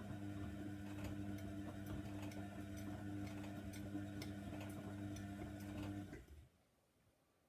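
Hoover Nextra washer dryer running its wash: the drum motor hums steadily while something in the drum clicks a few times a second. The motor stops about six seconds in, leaving near silence, the pause of the tumble cycle.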